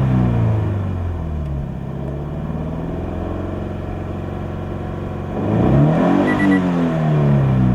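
Toyota 86 (ZN6) flat-four boxer engine through a 5ZIGEN SP aftermarket muffler, with a fairly low exhaust tone. The revs drop back to idle at the start and hold steady. About five and a half seconds in, a single quick rev rises sharply and falls back toward idle.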